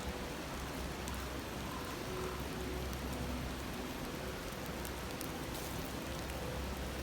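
Steady rushing and babbling of a river, with a few faint crackles from a wood campfire.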